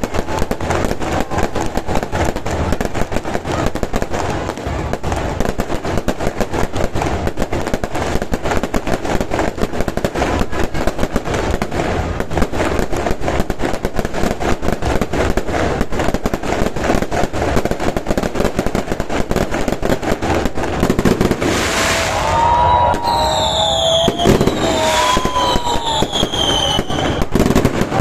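New Year's fireworks display: a dense, unbroken crackle of rapid bangs. Near the end, several whistling fireworks glide down in pitch over the crackle.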